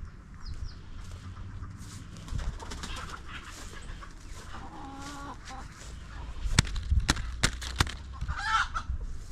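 Chickens clucking, with a few short calls, and a run of about five sharp knocks midway through.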